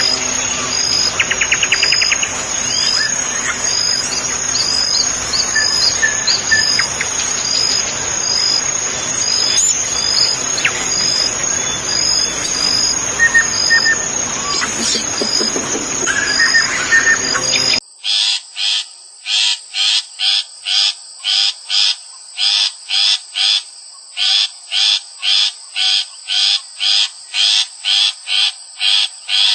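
Birds chirping and singing over a steady, high-pitched insect drone. About two-thirds of the way through, the sound changes abruptly to a single rhythmic call, repeated nearly twice a second.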